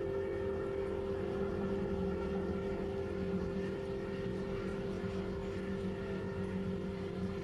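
Bomber engines droning steadily: a constant low hum with a few held, unchanging tones.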